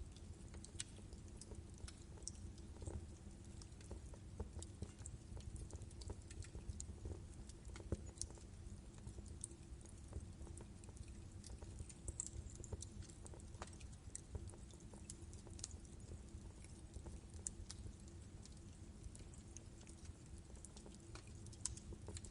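Wood fire burning in a fireplace: a low steady rumble with irregular sharp crackles and pops from the logs, a few louder snaps scattered through.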